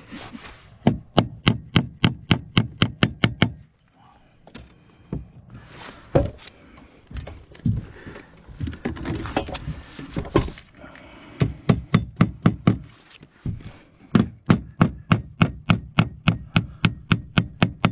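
Hammer driving nails to fix fibre-cement artificial slate panels: rapid runs of sharp strikes, about four or five a second, in bursts with a quieter stretch in the middle.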